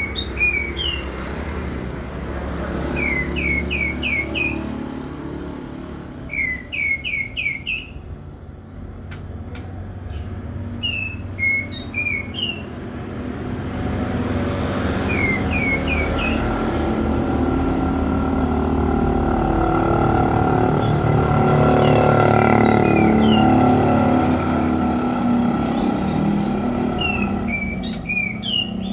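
A songbird calling in quick runs of four or five rising chirps, a few seconds apart, over the steady rumble of road traffic that grows louder through the middle and eases near the end.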